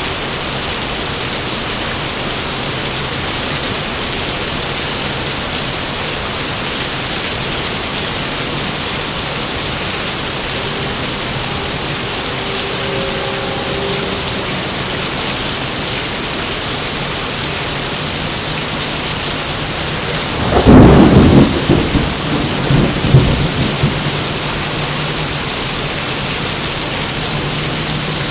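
Heavy rain falling steadily, with a sharp thunderclap about two-thirds of the way in that rolls on as uneven rumbling for a few seconds.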